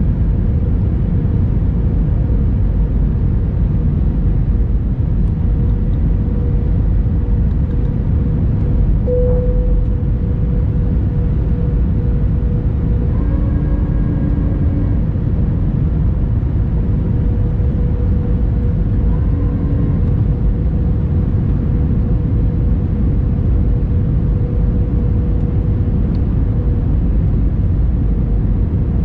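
Airbus A321 cabin noise: the steady low rumble of engines and airflow heard from inside the cabin, with a faint steady hum above it.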